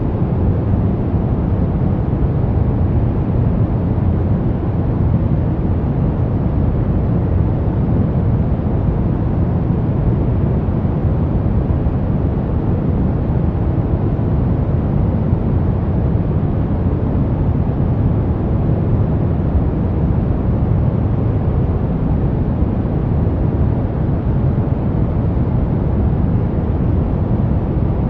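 Steady brown noise: an even, deep rumbling hiss, strongest in the low end, with no changes or events.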